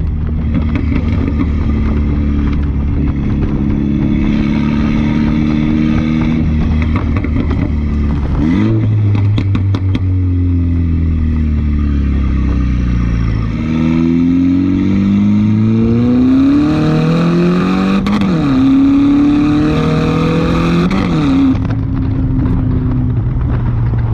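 2015 F56 Mini Cooper S's turbocharged four-cylinder engine running loud through a straight-piped, catless exhaust. It holds steady, rises and falls in pitch, and gives several quick rev blips. A run of sharp exhaust crackles comes about a third of the way in.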